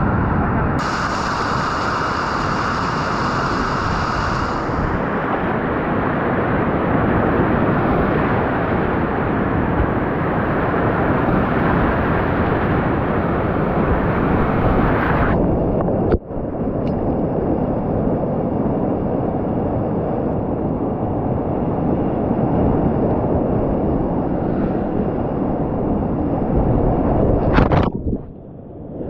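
Rushing river whitewater, a loud steady wash of water noise with wind buffeting the microphone, broken by a brief drop-out about halfway through and another near the end.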